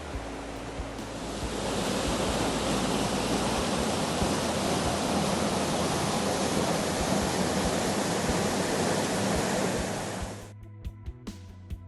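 Waterfall's steady rush of falling water, swelling about a second in and cutting off abruptly near the end.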